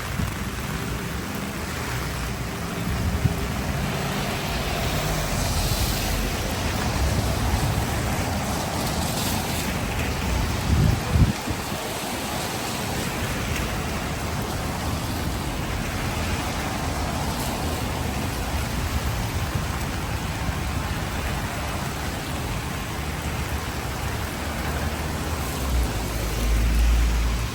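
Heavy rain falling steadily, a dense hiss of drops. Low rumbles run underneath, with a short loud one about eleven seconds in and a longer swell near the end.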